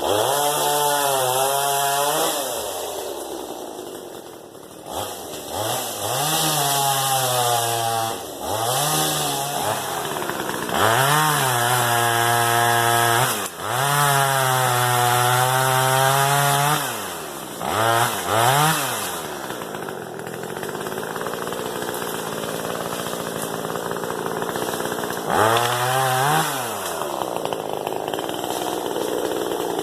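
Hoteche chainsaw revved up to full speed again and again, each burst held for one to three seconds before dropping back. The longest run is from about 11 to 17 seconds, and there is a quieter stretch with no revving in the last third, broken by one more rev.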